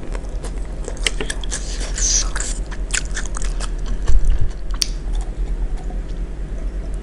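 Close-up chewing of a mouthful of raw vegetable salad (lettuce, cabbage) in peanut sauce: wet crunching and crackling, with a dull knock about four seconds in.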